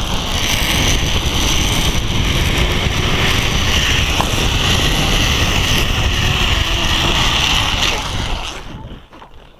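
Zipline trolley pulleys running along the steel cable during a ride: a steady whir with heavy wind buffeting the microphone, dying away about eight and a half seconds in.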